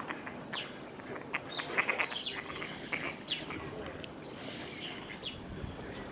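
Birds chirping in many short, sharp calls, densest in the first half, over a steady low background rumble.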